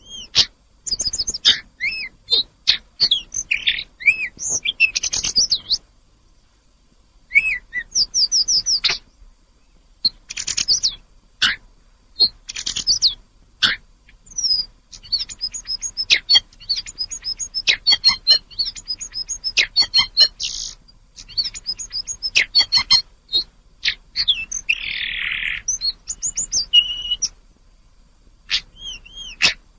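A tledekan gunung songbird singing a fast, varied song of high whistles and chirps with quick pitch glides, in phrases broken by short pauses.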